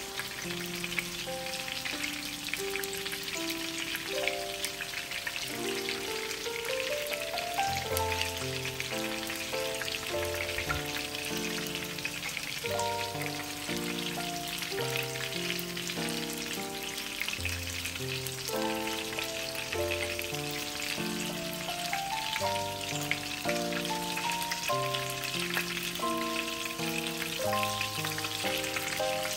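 Zucchini and minced-meat patties frying in hot sunflower oil in a pan: a steady sizzle with fine crackling. Background music plays a melody of stepped notes over it.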